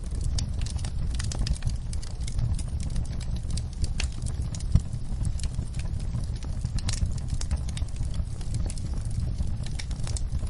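Wood fire crackling in a fireplace, with irregular sharp pops and one louder pop a little before the middle, over a steady low rumble and the patter of rain.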